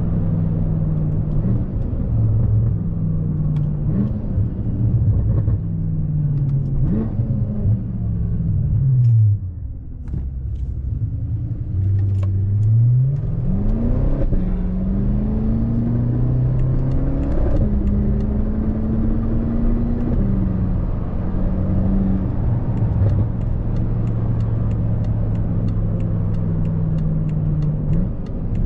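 BMW F10 M5's twin-turbo V8 with an X-pipe exhaust, heard from inside the cabin while driving. The revs fall away, then climb steeply as the car accelerates up through the gears, then settle into a steady drone.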